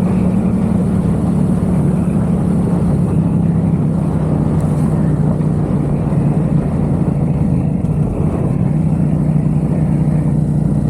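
Yamaha XSR700's 689 cc parallel-twin engine with a MiVV aftermarket exhaust running steadily under way, heard from the rider's position, its pitch settling a little lower about halfway through.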